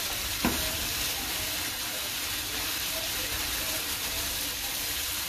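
Diced onion and ginger sizzling in oil in a wok, a steady hiss, with one sharp knock about half a second in.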